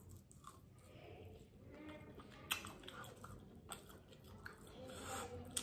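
A person biting into and chewing crispy fried chicken: faint, wet crunching in the mouth, with a few sharper crunches scattered through.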